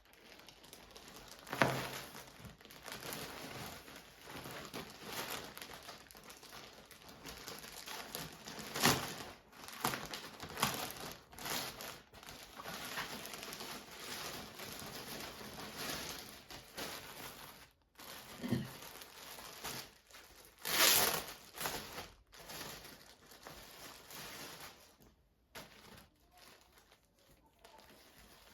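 Packaging crinkling, rustling and tearing as parcels are unwrapped by hand, in irregular bursts with louder crinkles about a second and a half in, around nine seconds and around twenty-one seconds.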